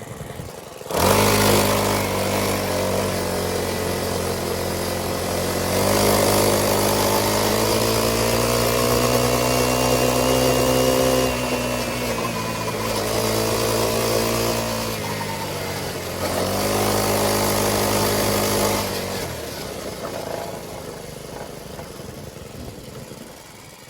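Motorcycle engine under way. It comes in suddenly about a second in, rises and falls in pitch several times as the throttle is opened and eased off, then dies away over the last few seconds.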